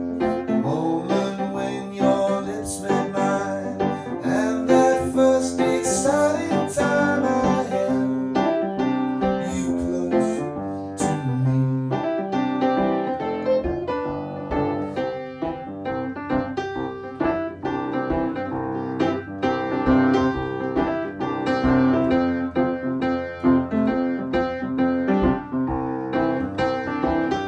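Instrumental keyboard passage with a piano-like electric keyboard sound, playing sustained chords with no singing, bridging from one song of a mashup into the next.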